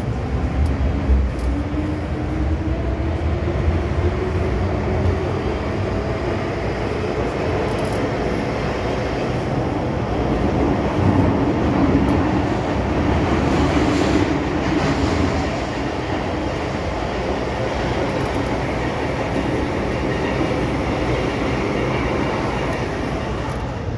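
MTR M-Train electric multiple unit heard from on board: the traction motors whine, rising in pitch over the first several seconds as the train accelerates, over the steady rumble and rail noise of the train running.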